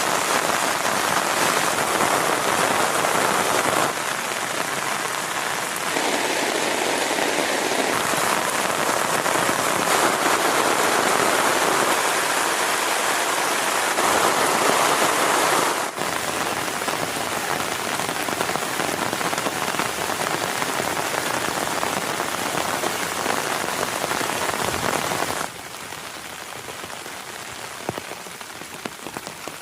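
Heavy rain falling, a steady dense hiss that drops abruptly in level a few times, about 4 s, 16 s and 25 s in.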